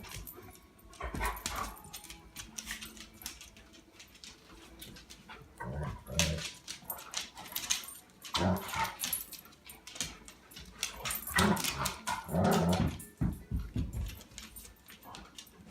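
A dog vocalising in short bursts while play-fighting with a person, about five times, with quieter gaps between.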